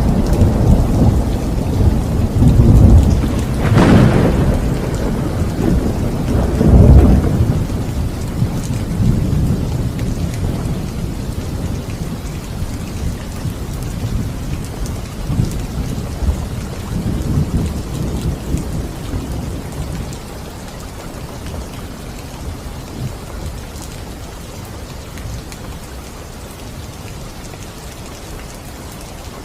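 Thunder over steady rain: a sharp crack about four seconds in and another peal a few seconds later, then the rumble dies away slowly, leaving the even hiss of rain.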